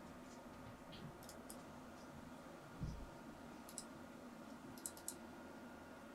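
Faint, sharp clicks: a couple early, one near 4 s and a quick run of three around 5 s, with a soft low thump about three seconds in, over a steady low hum.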